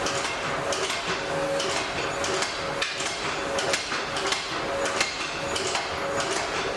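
Blacksmith's hammer striking metal at the anvil in irregular blows, roughly two a second, with a faint ring between strikes, over the steady rushing of the forge fire.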